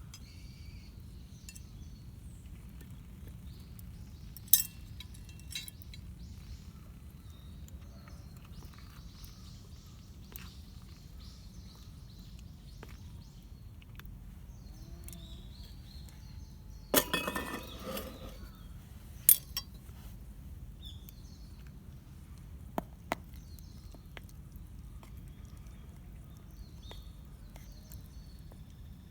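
Sparse clinks of metal camp cookware being handled: a few sharp single strikes and a short clatter about seventeen seconds in, over a steady low background noise.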